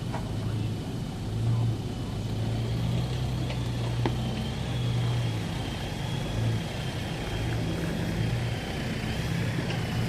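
Four-wheel-drive vehicle engine running steadily at low revs, a low hum, with a thin steady high whine above it.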